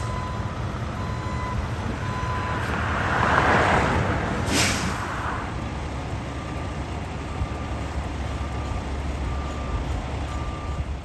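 A heavy truck's engine running, with a backup alarm beeping in a steady rhythm. A rushing hiss swells up about three seconds in, with a short sharp hiss just after it.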